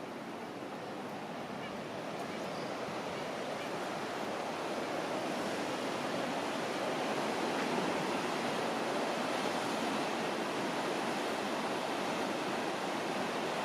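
Ocean surf washing against the shore: a steady rush of waves that swells gradually over the first several seconds, then holds steady.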